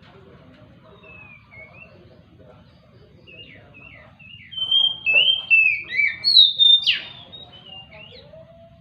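Oriental magpie-robin (kacer) singing. A few faint whistled notes are followed, in the second half, by a loud run of varied whistled notes that slide up and down and end abruptly.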